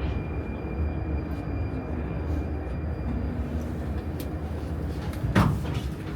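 Prague metro Line A train heard from inside the car as it pulls into a station: a steady low rumble with a faint high whine that fades out partway through, and one short, loud sound falling in pitch about five seconds in.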